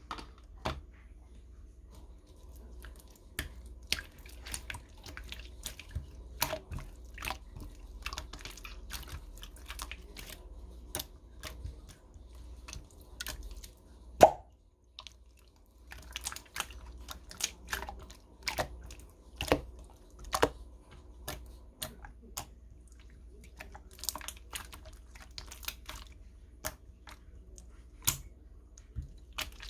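Clear slime being handled: irregular sharp clicks and small pops as it is pressed and stretched, with one much louder pop about halfway through.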